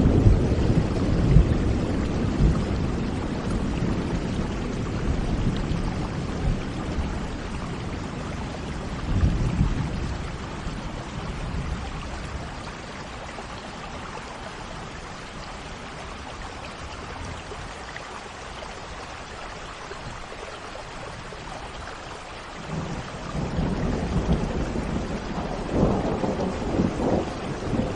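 Steady rain with rolling thunder. The low rumble fades over the first ten seconds or so, the rain carries on alone through a lull, and the rumbling builds again near the end.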